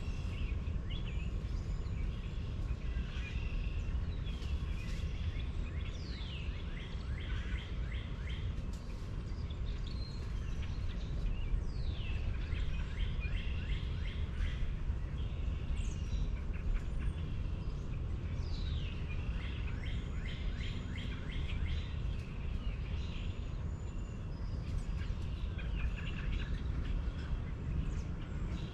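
Several birds singing and chirping, with a falling whistled call every few seconds, over a steady low rumble.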